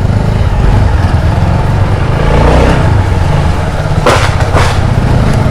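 Motorcycle engine running at a steady pace while riding, a low, even rumble. Two short rushes of hissing noise come about four seconds in.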